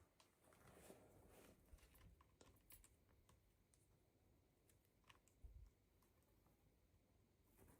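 Near silence, with a few faint, scattered small clicks.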